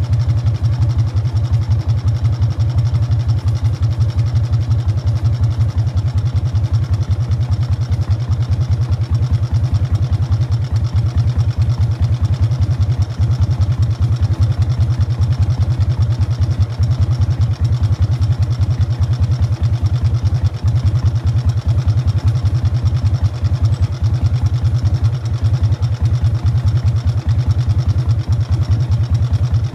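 Exhaust of a Harley-Davidson Fat Boy's Evolution V-twin through Python mufflers, running at a steady, unchanging pace with a deep pulsing beat.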